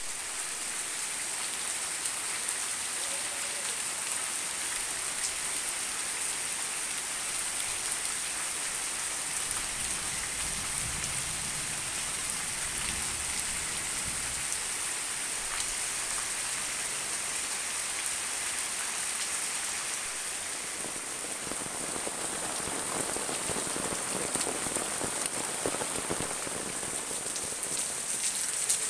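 Steady rain falling and pattering on surfaces, a constant even hiss.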